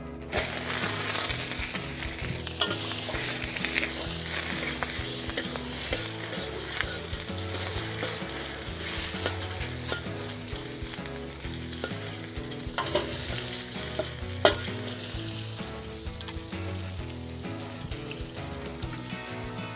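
Food sizzling hard in hot oil in a wok over a gas wok burner, the sizzle starting sharply about half a second in. A metal spatula stirs it, with a few sharp clinks against the wok, the loudest about two-thirds of the way through.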